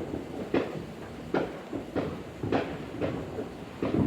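Neighbourhood fireworks exploding in the distance, about five bangs in four seconds, each trailing an echoing rumble.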